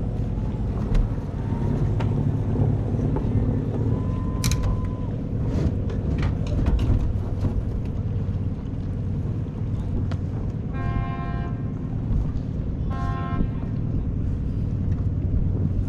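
Steady low motor rumble at a harbor fuel dock, with scattered knocks and clicks and two short horn toots about two seconds apart, past the middle.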